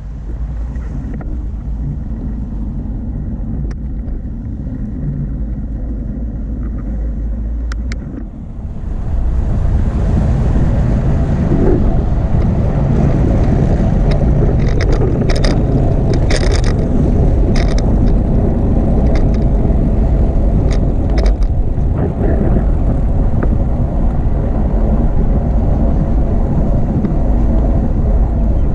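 Wind buffeting the microphone of a moving bicycle's camera: a loud, steady low rumble that gets louder about eight seconds in, with a few sharp clicks and rattles in the middle stretch.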